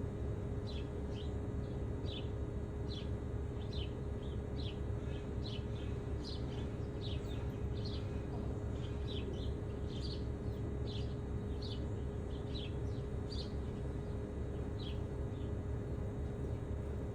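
Small birds chirping repeatedly, a steady run of short, quick downward chirps, two or three a second, thinning out near the end. Underneath is a steady low rumble with a faint constant hum.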